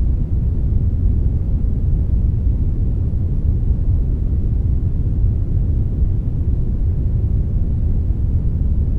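Steady synthetic brownish noise, a blend of brown and white noise: an even, deep hiss with most of its weight in the bass and little treble, unchanging throughout.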